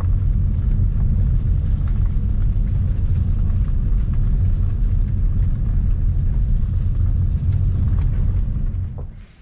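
Ford Mustang driving, a steady low rumble of engine and road noise heard inside the cabin. It dies away near the end as the car slows.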